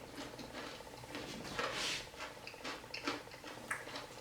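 Chewing and crunching of crispy fried fish close to the microphone: an uneven run of short crisp clicks and crackles, with a brief louder crunch about halfway through.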